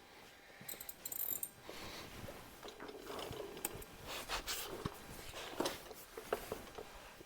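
Scattered light clicks and metallic clinks of hand tools being handled, with some shuffling.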